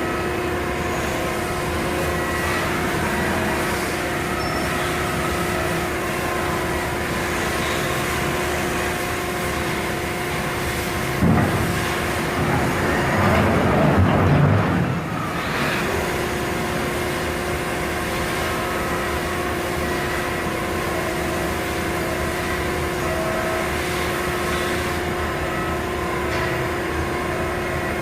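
Steady machine hum holding several fixed tones. About eleven seconds in, a louder rushing noise swells for roughly five seconds, then drops back to the hum.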